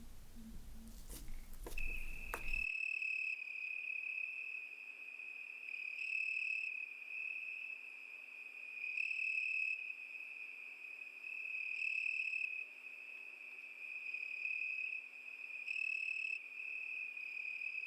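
A few sharp clicks, then from about two and a half seconds in a steady high-pitched trill that swells and fades roughly every three seconds.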